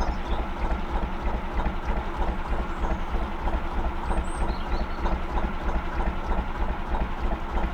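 Gardner 2LW two-cylinder diesel engine of a narrowboat running steadily with an even, rapid beat. A few faint bird chirps come through about four seconds in.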